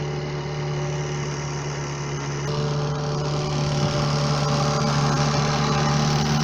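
An engine running steadily with a low, even hum that grows slightly louder.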